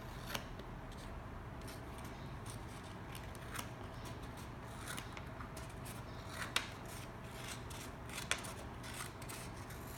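Scissors cutting through a folded sheet of paper, a few scattered snips over a steady low background hum.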